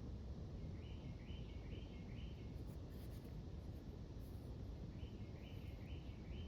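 A bird calling in the background: a quick phrase of four short, high, rising notes, heard twice, over a steady low rumble of background noise.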